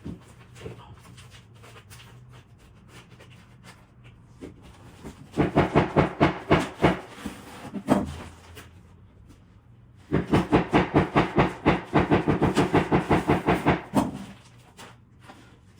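Rapid runs of sharp knocks, about six a second, in two bursts of a few seconds each, with a low steady hum between them.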